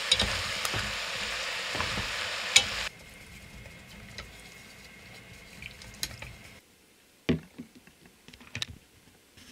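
Pork belly and vegetables sizzling as they are stir-fried in a stainless steel pot, with a few clicks of a utensil. After about three seconds it drops to a much quieter stirring of the simmering soup, and near the end come a few light knocks as the soup bowl is set down on a wooden table.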